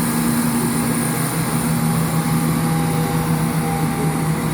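Class 170 Turbostar diesel multiple unit pulling out of the station, its underfloor diesel engines running with a steady drone.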